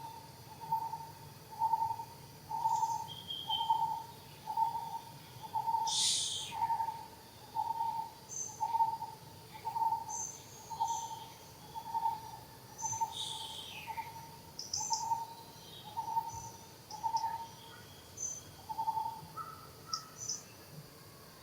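A bird repeating a single hooting note about once a second, on one steady pitch, until it stops near the end. Other birds chirp high over it, with two louder downward-sweeping calls.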